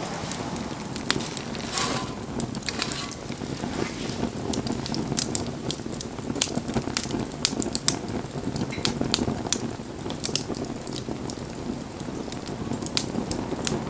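Wood bonfire burning, the wood crackling with frequent sharp pops over a steady rush of flame, and a short hiss about two seconds in.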